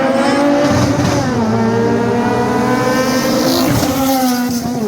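Loud car engine revving hard under acceleration during a street race, its pitch climbing through the gears with drops about a second in and again near the end.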